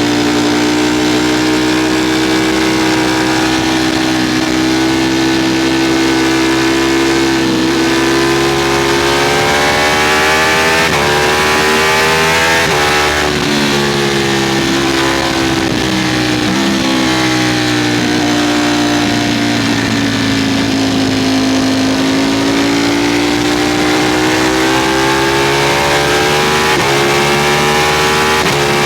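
Ducati Streetfighter V4 motorcycle's V4 engine running hard at speed, its pitch climbing and sagging with the throttle and broken by several gear changes in the middle and one near the end, with wind rushing over the microphone.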